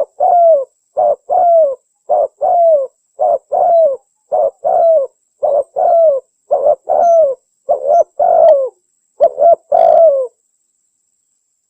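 Spotted dove (tekukur) cooing over and over in quick pairs, a short coo followed by a longer one that slides down in pitch. The uploader presents it as a female calling to a male. The cooing stops about ten seconds in.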